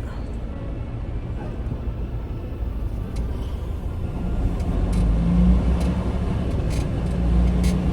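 Semi-truck engine rumbling from inside the cab, growing louder about halfway through as it takes on more throttle.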